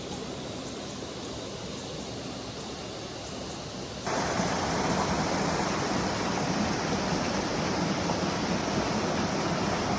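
Mountain water running down over rocks, a steady rushing hiss. About four seconds in it turns suddenly louder and fuller, then holds steady.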